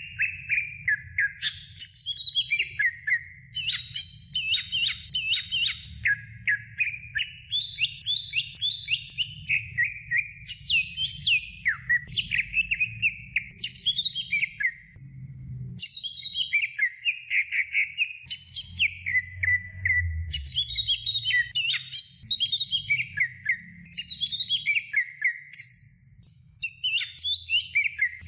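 Cucak hijau (greater green leafbird) singing a long, almost unbroken run of rapid, varied chirps and gliding whistles, with short pauses about halfway through and near the end.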